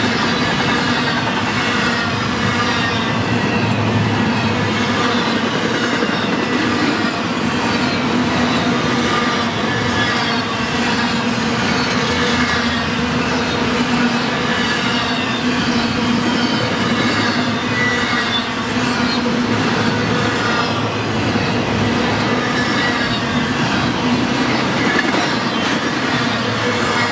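Double-stack intermodal freight train rolling past at speed: a steady rumble and rush of the well cars' wheels on the rails, with thin squealing tones from the wheels that waver in pitch.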